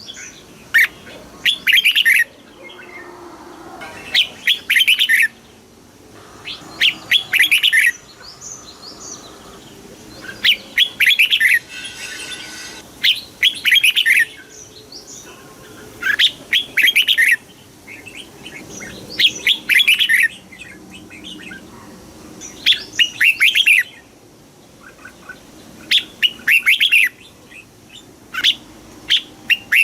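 Red-whiskered bulbul singing: short, bright, warbled phrases of about a second each, repeated every two to three seconds.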